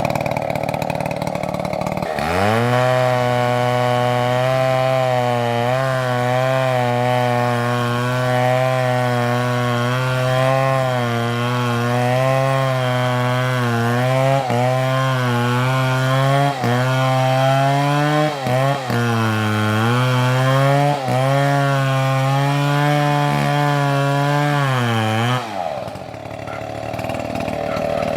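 Two-stroke chainsaw running at high revs while cutting through wood, its pitch wavering and sagging briefly several times under the load of the cut. The engine comes up to speed about two seconds in and drops back shortly before the end.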